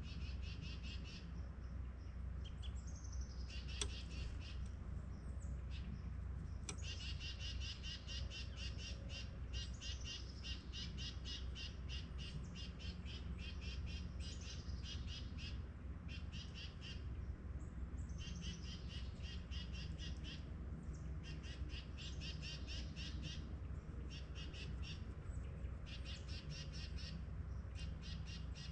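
Forest birds calling: phrase after phrase of rapid, high chattering notes, each run lasting a second or a few, with short pauses between them, over a steady low background rumble.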